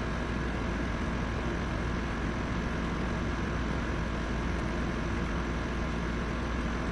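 Steady background hum and hiss that does not change, with no clicks or knocks standing out.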